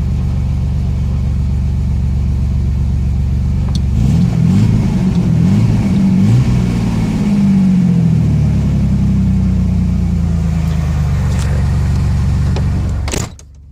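Chevy S10 pickup's engine idling steadily, revved up and let fall back a few times partway through, then settling to idle. The sound cuts off abruptly near the end.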